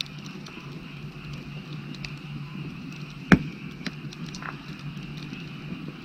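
Firewood burning with scattered small crackles and one sharp, loud pop about halfway through, over a steady chorus of frogs.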